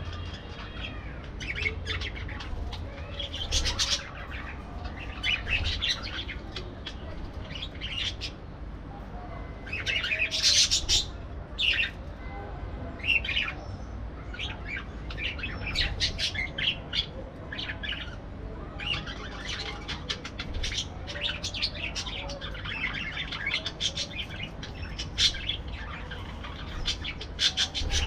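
Several parakeets chirping and chattering in quick, irregular clusters of short high calls.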